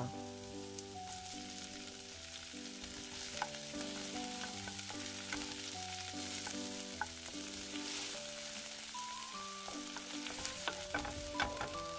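Sliced garlic and onion sizzling in hot oil in a frying pan, stirred with a wooden spatula that gives light scattered taps and scrapes, more of them near the end. Soft background music plays underneath.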